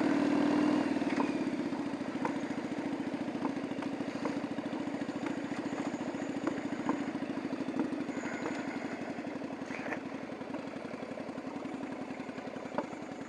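Yamaha Virago 750's air-cooled V-twin engine running at low speed with a steady, even beat. It is slightly louder in the first second, then settles.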